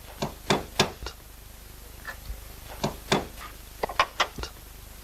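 A roofer's hammer tapping on slate cladding: about a dozen sharp, irregular knocks in loose clusters, as slates are nailed onto the wooden boarding.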